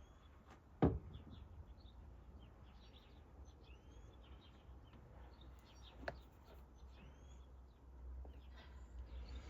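Small birds chirping in the background, with a sharp knock about a second in and a softer one about six seconds in, over a low steady rumble.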